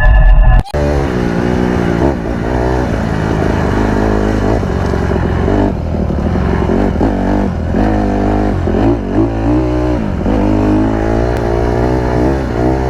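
Dirt bike engine being ridden, its pitch rising and falling again and again with throttle changes and gear shifts. A brief louder stretch at the very start cuts off abruptly under a second in.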